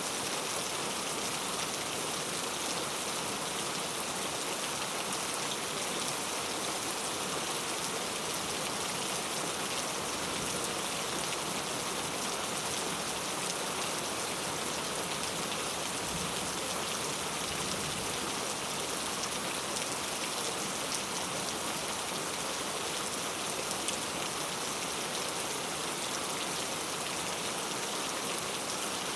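Heavy rain falling steadily on hard street surfaces, an even dense hiss of drops.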